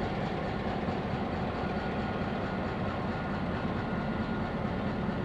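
Diesel-hauled passenger excursion train rolling past on the rails: a steady rumble and rattle of wheels and cars.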